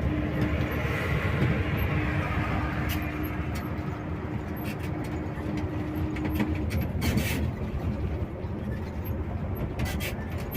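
Bus on the move: a steady low engine and road rumble, with a steady hum that stops about two-thirds of the way through and a few light clicks and rattles.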